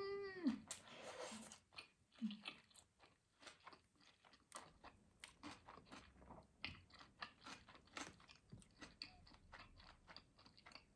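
Quiet close-up chewing of sushi rolls, with many small irregular crunches and mouth clicks. A short falling whine-like vocal sound at the very start.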